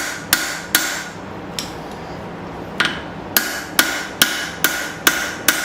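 Forging hammer blows on hot steel over an anvil, about two and a half a second, each with a short ring from the anvil. The blows pause for about two seconds near the start, with one light tap in the gap, then resume at the same pace.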